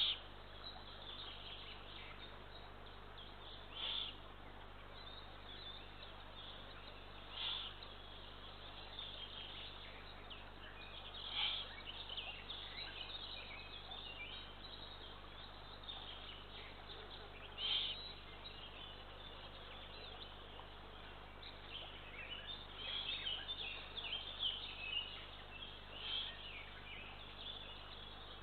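Eurasian eagle owl chicks giving short, hoarse, hissing begging calls, one every few seconds, over a faint steady hum. Smaller chirping calls cluster near the end.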